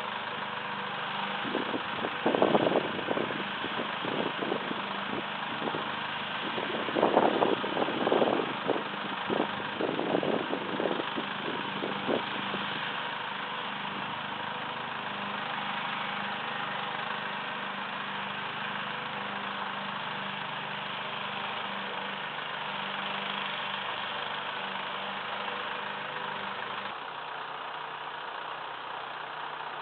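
Massey Ferguson 2635 tractor's diesel engine running steadily at a low speed. A few sharp clattering knocks come a couple of seconds in, and a longer run of them comes from about 7 to 12 seconds in.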